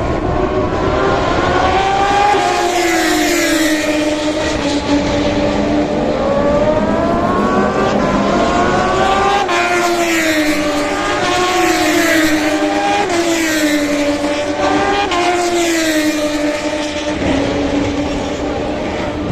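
Moto2 race motorcycles with Triumph 765 cc three-cylinder engines running flat out past the track, several bikes one after another. Each engine note climbs through the gears and then drops in pitch as the bike goes by. The sound thins out near the end.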